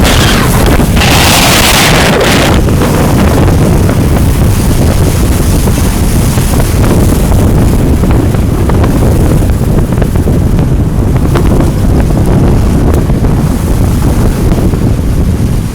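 Wind buffeting the microphone in a loud, steady low rumble, with a brief hissing swell over the first couple of seconds.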